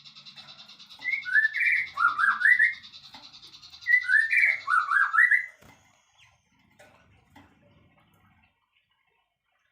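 Songbird singing two identical phrases of quick whistled notes, one about a second in and one about four seconds in, over a steady fast buzzing trill that stops a little past halfway.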